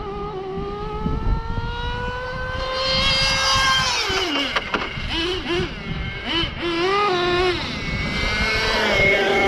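Kyosho Inferno GT2 RC car's small nitro engine running at high revs: a high-pitched whine that climbs steadily for about four seconds, drops away, wavers up and down with the throttle, then climbs again near the end.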